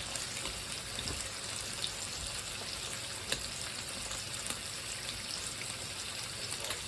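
Food cooking on the stove: a steady sizzling hiss with small scattered crackles.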